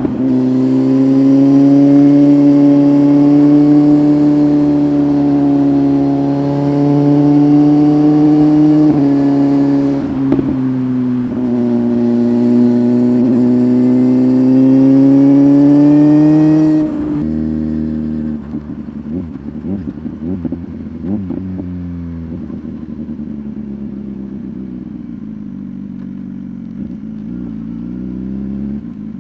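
BMW S1000RR's inline-four engine running loud through an Arrow exhaust, its note wavering up and down under throttle with a couple of brief dips. About 17 seconds in the throttle shuts and it falls suddenly to a lower, quieter note, with crackles on the overrun for a few seconds.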